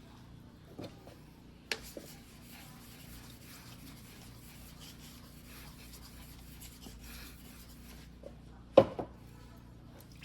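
Faint rubbing and handling noises at the sharpening bench, a light click about two seconds in, then a single sharp knock near the end.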